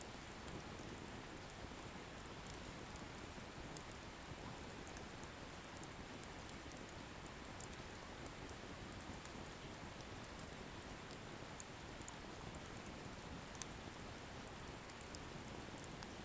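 Wood bonfire burning quietly: a soft, steady hiss with frequent small, faint crackles and pops from the firewood.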